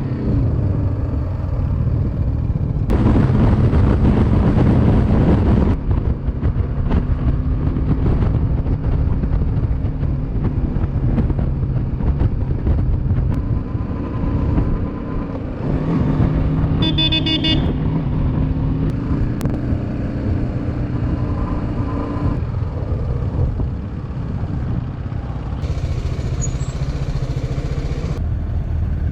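Motorcycle engine running steadily under road noise while riding, with a louder rushing stretch about three seconds in. A vehicle horn sounds briefly about two-thirds of the way through.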